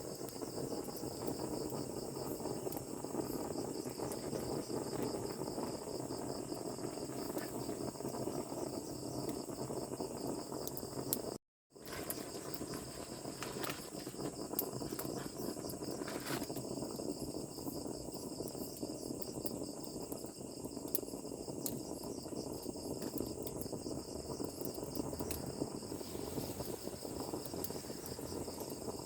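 A steady chorus of insects chirring in a high, pulsing band, over a low rushing background with scattered small clicks. It drops out for a moment partway through.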